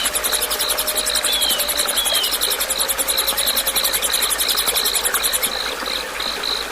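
Insects chirping: a fast, very high pulsed trill of about ten pulses a second that stops about five and a half seconds in, over a steadier chirp pulsing about three times a second. A few faint short bird chirps come in the first two seconds.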